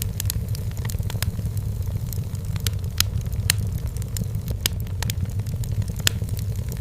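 Wood fire burning in a fireplace, crackling with irregular sharp pops and snaps, several a second, over a steady low rumble.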